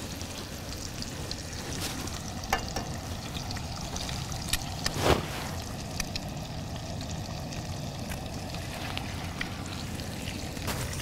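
Meat and eggs frying in a cast iron skillet on a propane camp stove: a steady sizzle with a few light clicks. About five seconds in there is one brief, louder burst as another egg is cracked into the hot pan.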